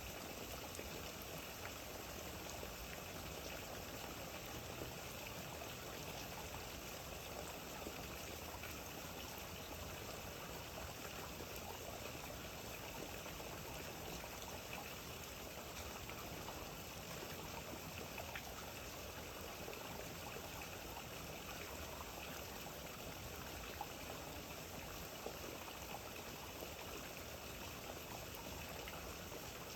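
Steady rain falling, an even hiss of water with a few faint drip ticks.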